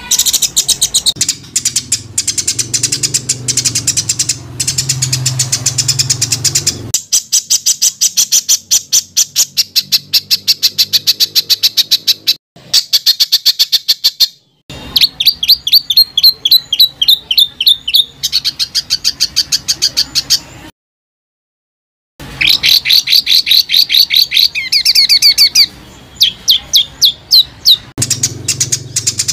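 Songbird singing dense, rapid trains of sharp repeated chirps, the harsh fast 'tembakan' phrases used to tutor competition birds. The song comes in spliced runs that change abruptly, with two brief breaks and about a second and a half of silence past the middle.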